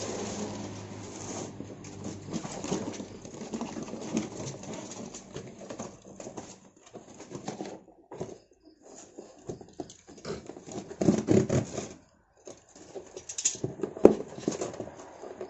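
Small wild-caught songbirds scrabbling and fluttering in their box or cage, with irregular rustling and tapping and a sharp knock near the end.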